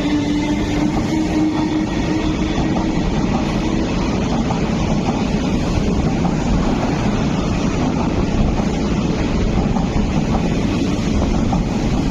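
MTR East Rail Line MLR electric multiple unit running past a platform at speed: a loud, steady rumble of wheels and traction equipment, with a faint tone rising slightly over the first few seconds.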